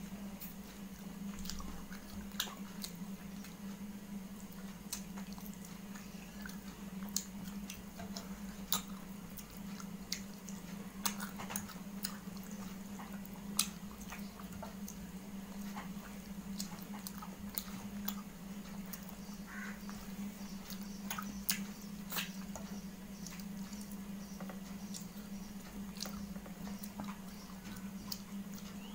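A person chewing food close to the microphone, with scattered wet clicks and smacks of the mouth. A steady low hum runs underneath.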